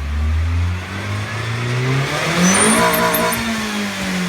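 Car engine revving up from a low, steady note, climbing in pitch for about two seconds, then dropping back down.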